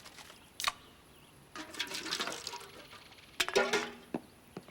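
Cartoon sound effects of liquid being poured and sloshing, with a sharp click about half a second in and a louder gurgle about three and a half seconds in.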